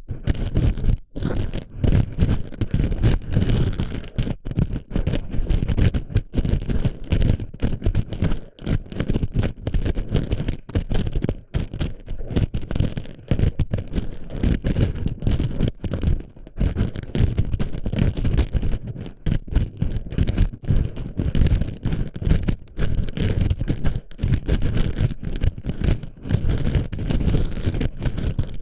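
Plastic BB pellets rattling and rolling in a close-up ear microphone: a dense, continuous clatter of many small rapid clicks with a scratchy rustle.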